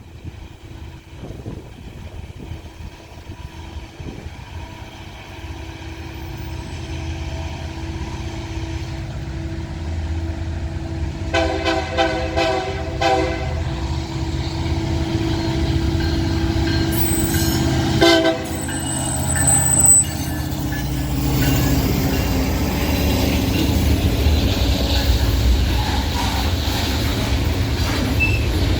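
Freight train approaching, its diesel locomotive's low rumble growing steadily louder. Partway through, the locomotive's air horn sounds in a quick series of short blasts, then once more briefly a few seconds later, with a thin high squeal. Near the end the heavy rumble of the train passing close dominates.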